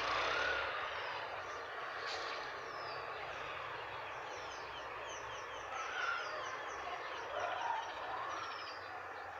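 Outdoor background noise with small birds chirping throughout, many short high falling chirps, and a few faint gliding calls lower in pitch.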